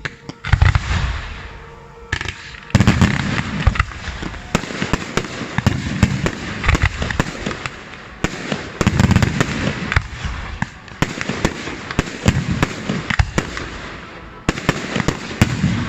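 Fireworks going off in a continuous barrage: rapid cracks and crackling throughout, with heavier booms every few seconds.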